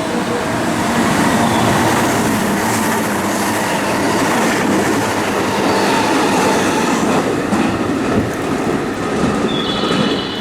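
Train passing through a station platform without stopping: a loud, steady rush of wheels running on the rails. A high, steady tone pattern comes back near the end.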